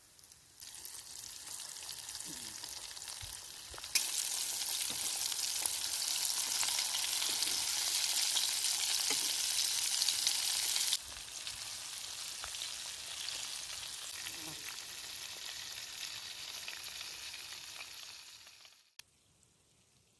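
Egg-and-breadcrumb-coated chicken pieces frying in hot oil, a steady sizzle. It starts just under a second in, is suddenly louder from about four seconds to eleven seconds, then drops back and fades out shortly before the end.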